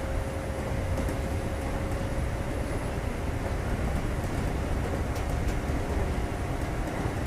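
Steady running noise inside the passenger car of a Kintetsu 2430 series electric train, mainly a low rumble from the wheels and running gear. Faint steady hum tones sit over the rumble.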